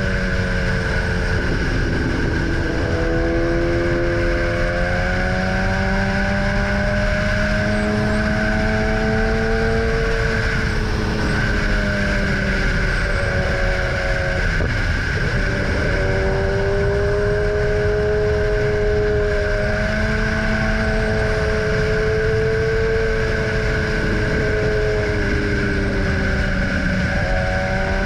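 Motorcycle engine under way, its pitch climbing slowly and then falling back several times as the rider speeds up and slows, over a steady rush of wind noise.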